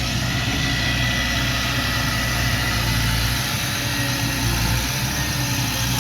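Diesel engine of earth-moving machinery idling steadily.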